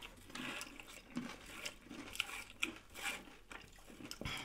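Close-miked eating sounds from tacos and nachos: soft chewing and crunching with irregular small clicks and crackles. There is a dull knock near the end.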